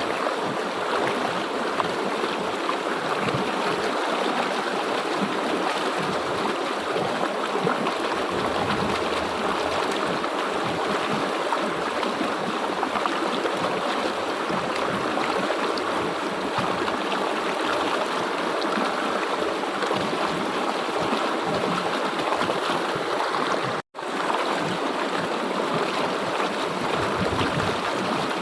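River water flowing steadily over rocks, an even rushing and babbling. The sound cuts out completely for an instant about 24 seconds in, then resumes.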